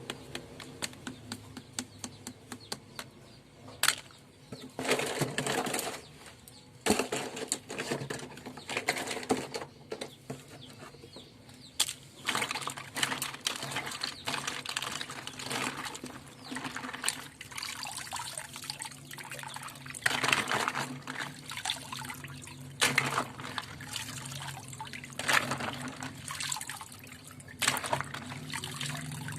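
Flowing water splashing and gurgling in uneven bursts over plastic bath toys, with a few sharp knocks now and then.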